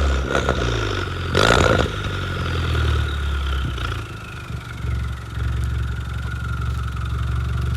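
2009 Mini Cooper S turbocharged four-cylinder idling through a catless downpipe and 2.5 inch glass-pack exhaust, with a short loud burst of noise about a second and a half in. A faint high whistle falls slowly in pitch over the next few seconds while the engine settles at idle.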